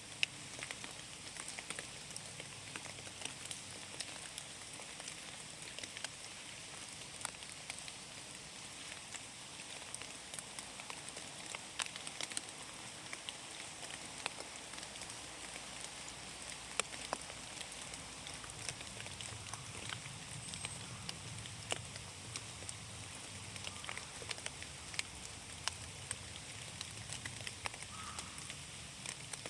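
Rain falling in a forest: a steady hiss with many scattered, irregular sharp drops.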